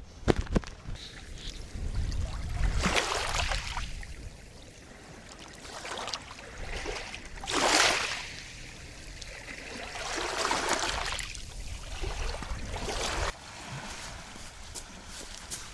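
Small waves washing up the shore in several swells of surf noise, the loudest about eight seconds in. A few sharp clicks come right at the start.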